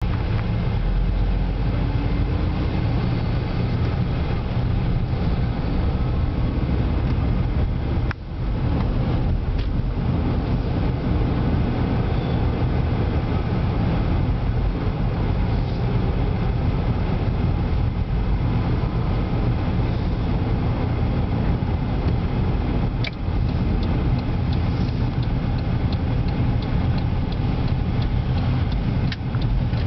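Kenworth rear-loader garbage truck's diesel engine running, a steady low rumble that drops out briefly about eight seconds in, with a few light ticks in the last several seconds.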